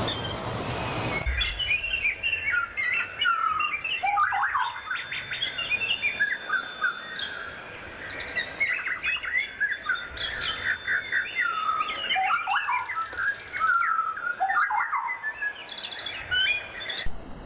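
A chorus of songbirds, many short chirps and whistles from several birds overlapping. It opens with about a second of loud, even rushing noise that cuts off abruptly.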